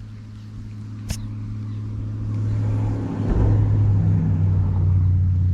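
A motor vehicle's engine droning steadily, growing louder over the first three seconds and then holding. A single sharp click comes about a second in.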